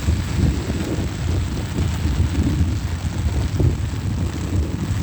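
Heavy downpour, a steady hiss of rain, with a low rumble of wind buffeting the microphone.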